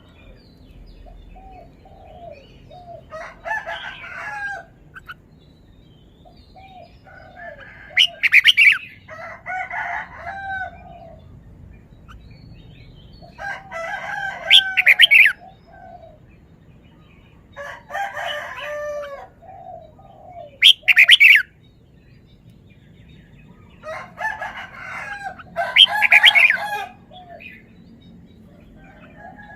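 Red-whiskered bulbul singing: about seven short bursts of quick, bubbling whistled phrases a few seconds apart, with soft lower chirping notes between them.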